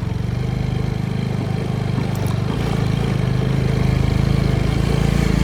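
Motorcycle engine running steadily at low revs with a fast even pulse, growing a little louder in the second half.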